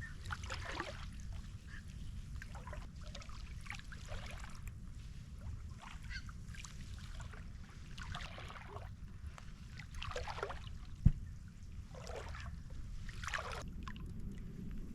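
Slow barefoot wading through shallow water and flooded marsh grass: a soft splashing swish every second or two over a steady low rumble. A single sharp tap about eleven seconds in.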